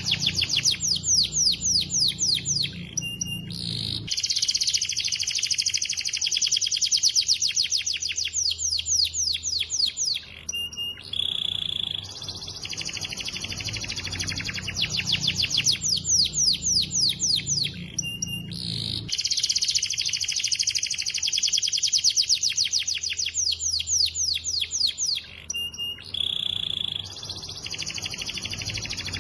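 Domestic canary singing: long rolls of very fast, evenly repeated trilled notes, broken by short pauses between phrases.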